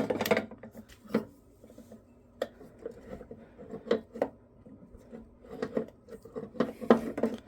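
Scattered clicks, light metallic knocks and scraping from hands and tools working a rubber fuel line off a small-engine carburetor, with a pinch-off clamp on the line.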